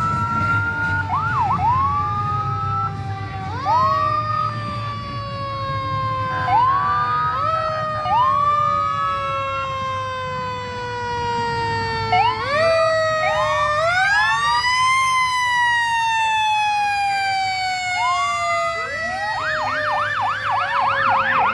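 Several fire truck sirens sounding at once: repeated quick rising whoops over long, slowly falling wails, with one siren rising about two-thirds of the way in and then slowly winding down, and a fast warbling yelp near the end. A low rumble from the trucks runs underneath.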